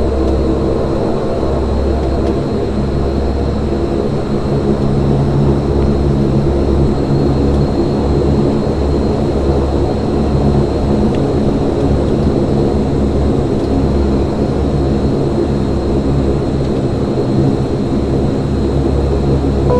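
Saab 340B turboprop engine and propeller droning steadily, heard from inside the cabin right beside the propeller, with a thin steady high whine above the low drone. The engines are running ahead of the takeoff roll, not yet at takeoff power.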